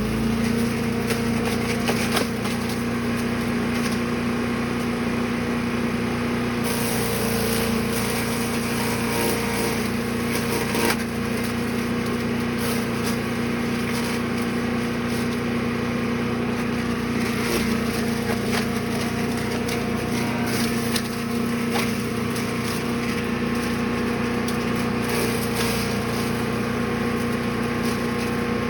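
Brush Master 3-in-1 wood chipper/shredder's gas engine running steadily under load, with scattered cracks and snaps of wood and brush being chipped and shredded.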